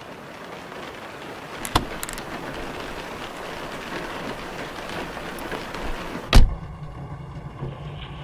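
Steady rain, swelling gradually, with a couple of sharp clicks about two seconds in. A heavy thump a little past six seconds, after which the rain cuts off suddenly and only a low hum remains.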